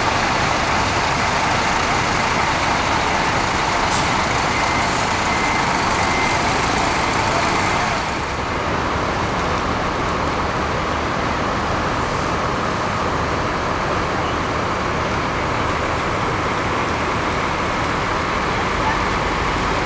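Steady road and engine noise of a Scania K360i coach on the move, dipping slightly about eight seconds in.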